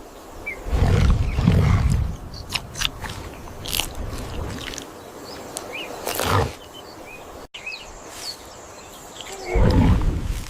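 A big cat growling in a deep, rough voice, twice: once about a second in and again near the end, with small birds chirping in the background.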